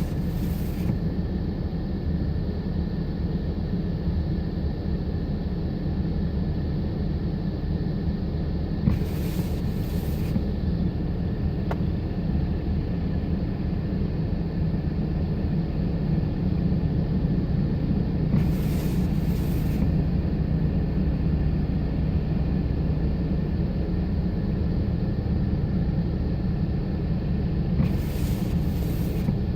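Steady wind rumbling on the microphone in a blizzard, with a brief double hiss about every nine or ten seconds.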